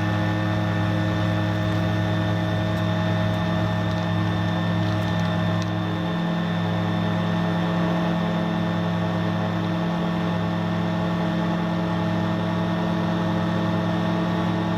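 Rotax 912 four-cylinder engine and three-bladed propeller of a Slipstream Genesis ultralight running at a steady, unchanging pitch as the plane goes up for another circuit.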